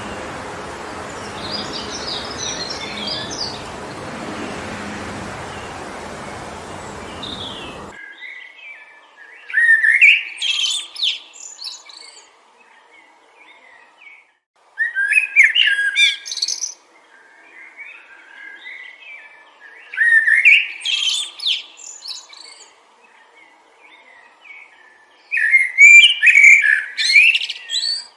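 Wind rushing through forest trees with faint bird chirps, cut off abruptly about eight seconds in. A songbird then sings loud, short phrases of quick rising whistled notes, four phrases about five seconds apart.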